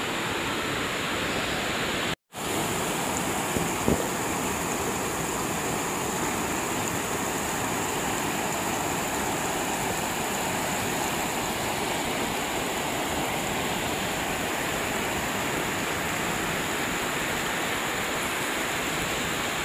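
Steady rush of river water pouring over rocks at the top of a waterfall, with a short dropout about two seconds in.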